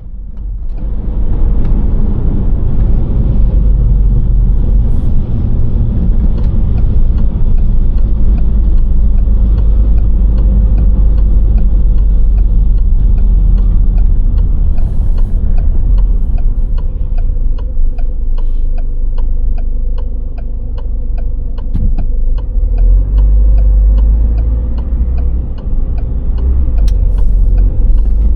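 Car driving along a road: a steady low rumble of engine and tyre noise that fades up in the first second or two, with a light regular ticking at about two a second through most of it.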